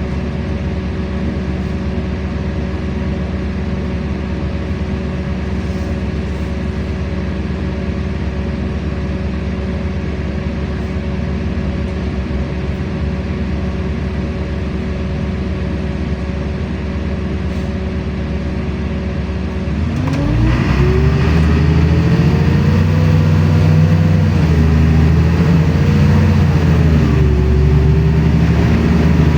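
LiAZ-5292.65 city bus's diesel engine idling with a steady hum, then about twenty seconds in it revs up as the bus pulls away. The engine pitch climbs, levels and dips as the bus gathers speed, and the rumble grows louder.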